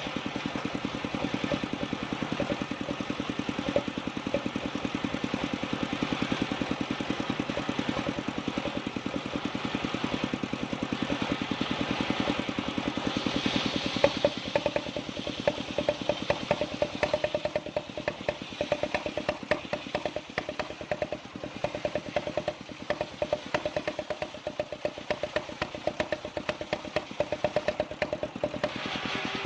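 Small engine of a wood-sawing machine running steadily with a rapid, even firing beat, its pulses growing sharper and more uneven from about halfway in.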